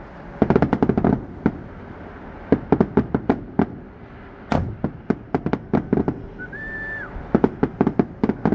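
Fireworks crackling in rapid clusters of sharp pops, with one louder single bang about halfway through. Near the end comes a short high whistle.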